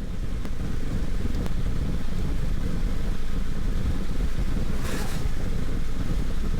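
Strong wind buffeting the microphone: a heavy, uneven low rumble, with a short rushing hiss about five seconds in.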